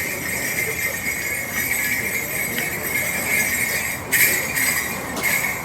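Small hand-held metal gongs (kane) of a danjiri festival cart's music, struck rapidly and continuously in a bright, jingling ring, with a louder clash about four seconds in.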